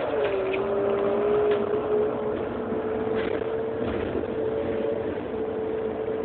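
Heuliez GX 327 city bus engine running, with a steady high whine over the engine noise that dips briefly near the start and then holds level.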